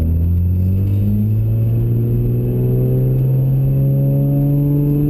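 BMW 135i's turbocharged straight-six through a muffler-less prototype stainless exhaust with downpipes, heard from inside the cabin as the car pulls away under light throttle. The engine note rises slowly and steadily in pitch toward about 3,000 rpm, without drone.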